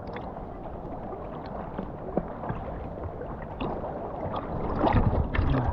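Sea water sloshing and gurgling around the diver, with scattered small knocks and splashes, getting louder about five seconds in.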